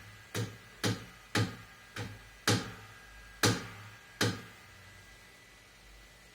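Seven sharp percussive hits over about four seconds, each followed by a short ringing tail, played through a guitar amplifier to test its freshly repaired Accutronics spring reverb tank.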